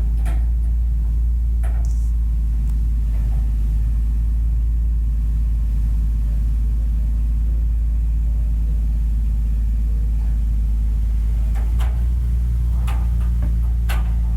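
Excavator's diesel engine running steadily under load, a continuous low rumble, with a few faint knocks near the end.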